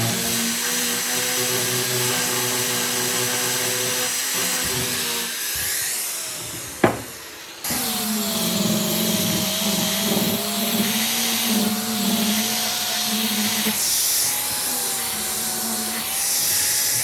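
Electric workshop machine running steadily with a whine. About seven seconds in it drops away, there is a sharp click, and it starts up again at once.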